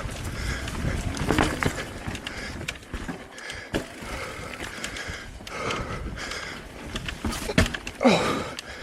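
Mountain bike riding down a rough dirt trail: tyre noise with frequent rattles and knocks from the bike, and a short squeal falling in pitch near the end.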